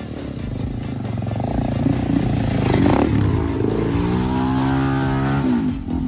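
Enduro dirt bike engine revving up, holding a steady pitch for a second or so, then dropping off shortly before the end.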